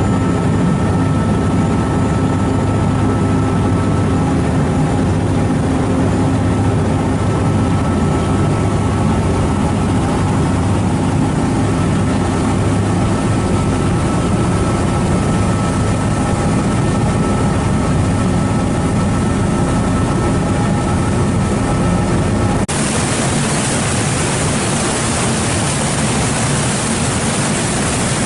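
Ferry engine droning steadily, with a steady hum and a faint higher whine. About 23 seconds in, it gives way abruptly to a loud rush of wind on the microphone.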